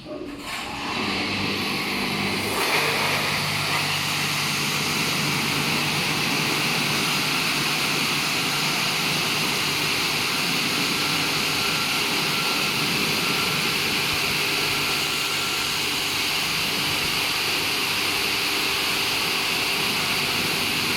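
Touchless car wash machine starting up, building within about two seconds to a steady, loud rushing hiss with a low machine hum beneath it.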